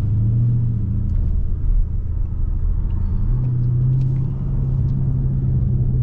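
Dodge Scat Pack's 6.4-litre HEMI V8 with its mid muffler deleted, running under way: a steady low exhaust drone that steps up in pitch about halfway through.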